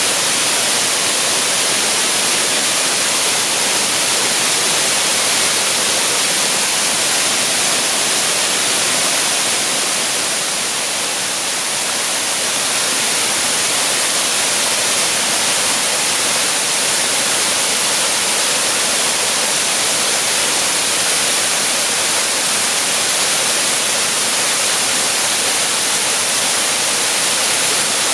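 Waterfall flowing out of a cave: a steady, loud rush of falling water, easing slightly for a moment about eleven seconds in.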